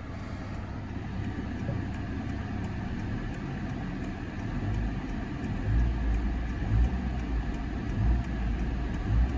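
2018 Honda Accord's 2.0-litre turbocharged four-cylinder engine running and being revved, its sound swelling several times in the second half.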